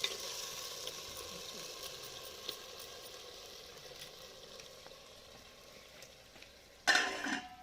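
Chicken pieces frying in a pan, a steady sizzle that slowly fades. About seven seconds in there is one short, loud noise.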